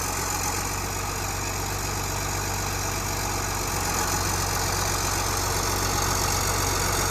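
Large John Deere diesel engine running steadily at idle, an even low rumble that grows slightly louder in the second half.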